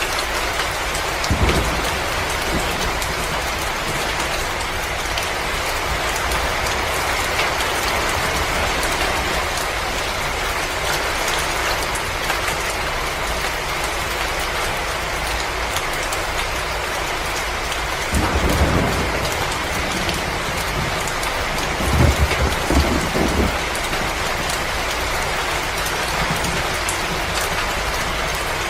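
Wood fire crackling, with many small pops over a steady hiss. Short low rumbles come about a second in and twice more in the later part.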